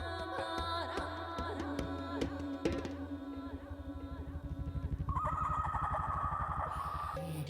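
Live music: a woman's vocal imitation of nature sounds over a steady low drone, with scattered percussive clicks. About three seconds in a fast low pulsing begins. Around five seconds a high wavering vocal tone enters and stops suddenly near the end.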